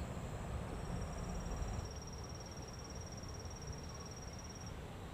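An insect, cricket-like, trilling in one steady high-pitched trill that starts just under a second in and stops near the end, over a low rumble.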